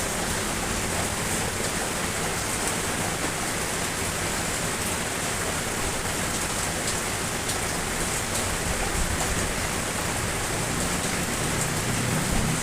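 Steady rain falling, a constant hiss with scattered drops tapping faintly through it.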